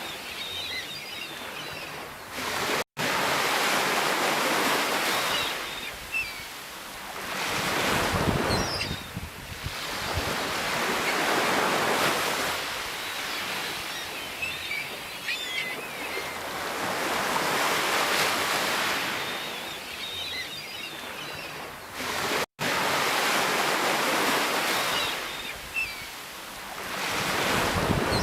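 Sea waves washing onto the shore, the surf swelling and falling back every five seconds or so. The sound drops out for a split second twice, about three seconds in and near twenty-two seconds.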